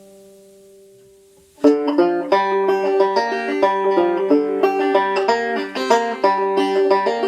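A 5-string banjo's last chord rings and fades, then about a second and a half in a two-finger picked tune starts abruptly, played with a Remo Renaissance plastic head on the banjo.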